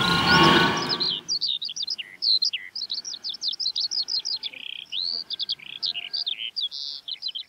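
Small songbirds singing, a dense run of quick high chirps and trills. It opens with a loud rushing whoosh that dies away after about a second.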